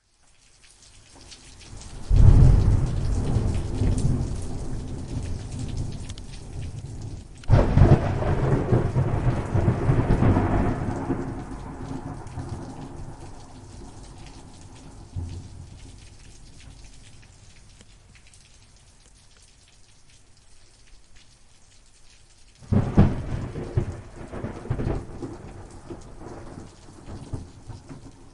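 Thunderstorm: steady rain with three thunderclaps, about two seconds in, seven and a half seconds in and near the end, each starting suddenly and rumbling away over several seconds. The rain fades up from near silence at the start.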